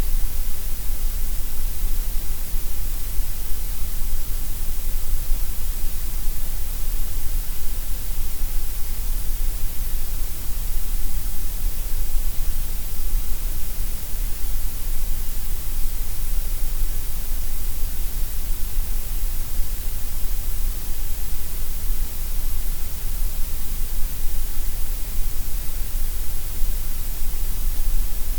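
Gray noise: a steady, unchanging hiss with a strong deep rumble and bright top and a thinner middle.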